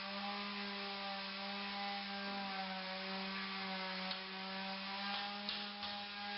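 Floor edge sander's electric motor running steadily with a whining hum while sanding the edges of an oak floor, its pitch sagging slightly now and then under load.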